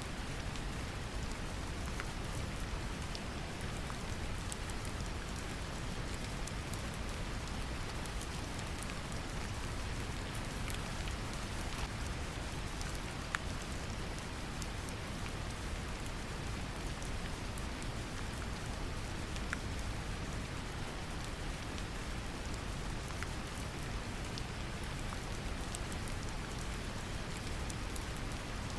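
Steady deep brown noise mixed with gentle rain, with drops pattering on a surface as many small scattered ticks. It holds an even level throughout.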